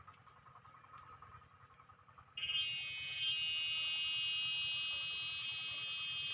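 A cicada starts singing suddenly about two and a half seconds in: a loud, steady, high-pitched buzz that carries on from then. Before it there is only a faint pulsing tone.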